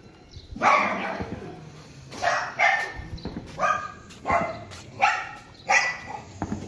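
A dog barking repeatedly, about one bark every second, the first bark the longest.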